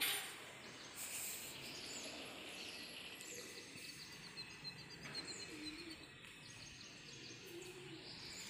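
Small birds chirping and calling over a steady outdoor background hiss, with a quick run of high chirps about three to five seconds in. A brief click sounds right at the start.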